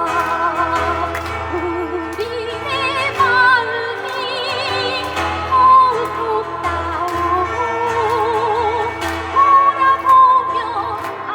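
Live choir singing a Korean people's song (minjung gayo) with strong vibrato, over keyboard and guitar accompaniment.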